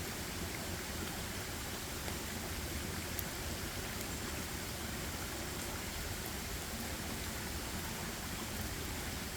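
Steady, even rush of water in a forest, with a few faint ticks.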